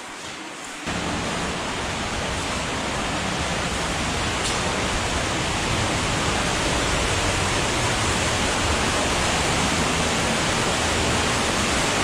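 Underground waterfall in a cave stream passage, running high: a steady rush of falling water that cuts in suddenly about a second in and grows slightly louder.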